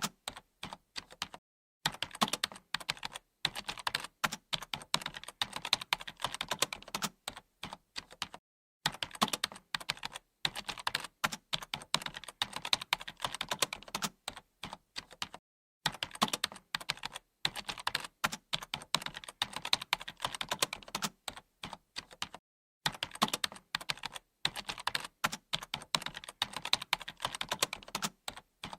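Computer keyboard typing: fast runs of key clicks, broken by brief pauses of total silence every few seconds.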